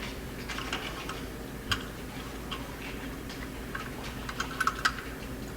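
Light, irregular metal clicks and ticks from a single-barrel carburetor's throttle and accelerator-pump linkage being worked by hand, with one sharper click about a third of the way in and a quick run of clicks near the end.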